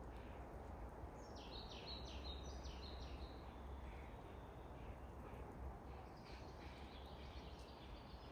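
A small songbird singing faintly in the forest: a quick phrase of short, high notes about a second in, and fainter notes again near the end, over a steady low background rumble.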